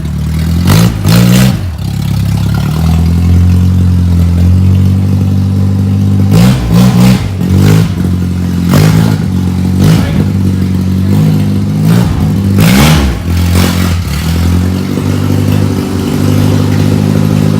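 Nissan D21 Hardbody pickup's engine idling steadily and being revved in repeated short blips, the pitch climbing and dropping back each time.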